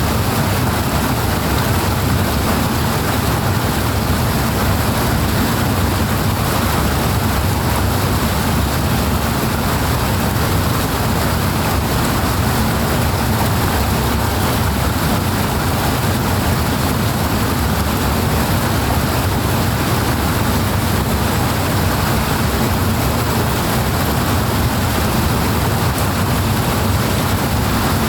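Powerful flowing water rushing steadily and evenly, with a strong deep rumble under the hiss.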